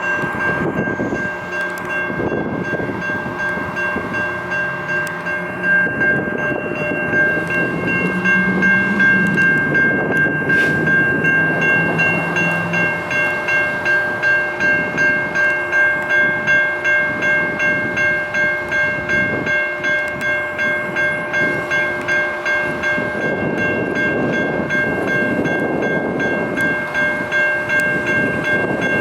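Sacramento RT light rail train running past a grade crossing while the crossing bells ring in a steady pulse, about one and a half strokes a second.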